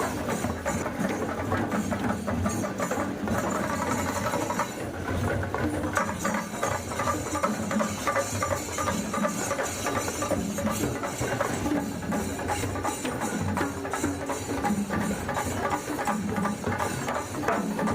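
Drum-led percussion music for a Kommu Koya dance, the drums beating a steady rhythm throughout with no break.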